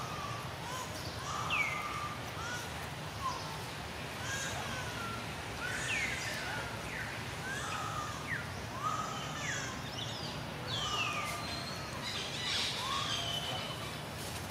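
Wild birds chirping and calling: many short calls, several sweeping down in pitch, scattered all through, over a steady low rumble.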